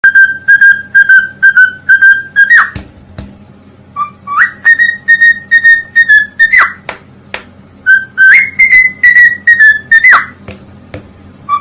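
A pet parrot whistling a tune in three phrases of quick repeated notes on one pitch, each phrase ending in a sharp upward swoop.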